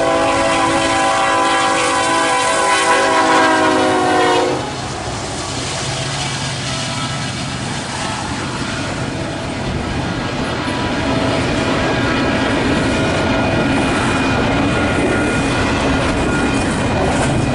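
A locomotive's five-chime Nathan air horn sounds one chord for about four and a half seconds, then a heavily loaded freight train runs past.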